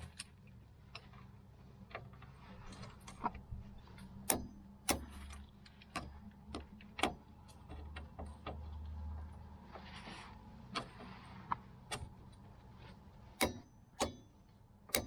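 Ratchet wrench clicking in irregular, sharp strokes as bolts on a car's lower control arm are tightened, with a short rustle about ten seconds in.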